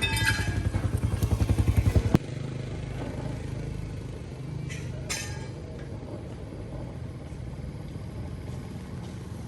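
An engine running, its beat pulsing and getting louder over the first two seconds until a sharp click cuts it short. It then settles into a steadier, quieter run, with two short hisses about five seconds in.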